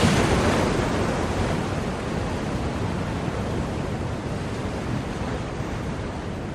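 Ocean surf: a wave breaks right at the start and its rushing wash slowly dies away.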